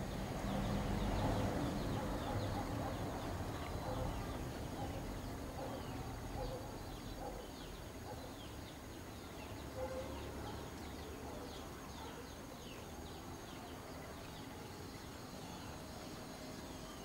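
Birds chirping in the open air: many short, quick, falling chirps overlapping, with a low rumble that fades over the first few seconds.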